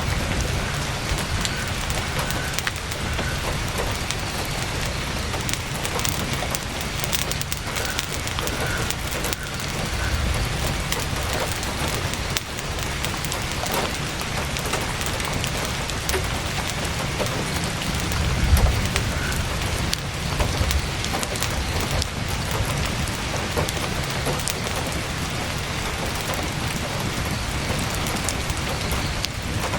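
Heavy rain pattering steadily on a tent, with the scattered crackle of a campfire. A low rumble swells briefly about 18 seconds in.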